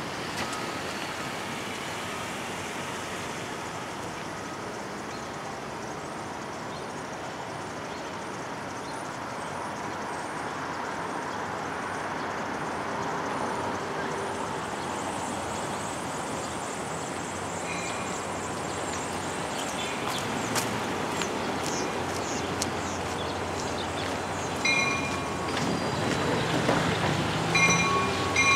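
A train approaching a grade crossing, its rumble growing slowly louder. Several short, high ringing tones come near the end.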